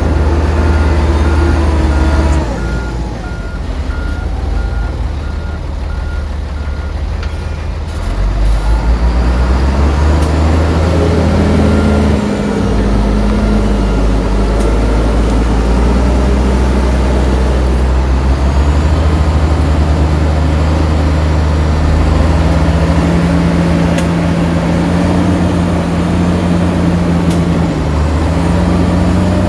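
Heavy diesel earthmoving machinery working, its engines running loud and rising and falling in pitch under load. A reversing alarm beeps steadily for roughly the first eight seconds, then stops.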